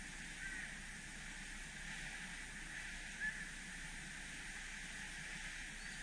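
Two short bird calls, about half a second in and about three seconds in, over a steady outdoor hiss.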